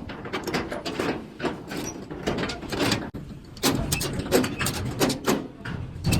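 Vehicle noise with many sharp knocks and clatter, a low rumble growing louder about halfway through.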